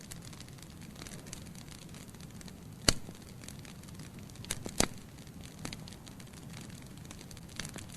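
Wood logs burning in a fireplace: a low steady rumble of flame with scattered crackles, and two sharp loud pops about three and five seconds in.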